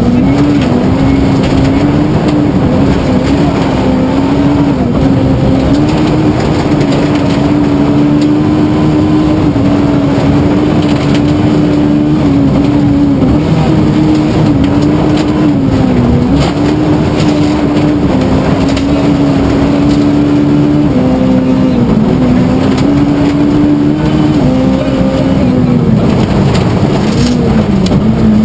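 Suzuki Swift rally car's engine running hard at high revs on a special stage, the note dipping briefly and climbing again a few times as it shifts gear or lifts for corners.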